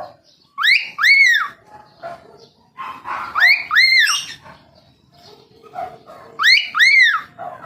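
Cockatiel whistling: three pairs of clear notes, each note rising and falling in pitch, about three seconds apart, with soft chatter between them.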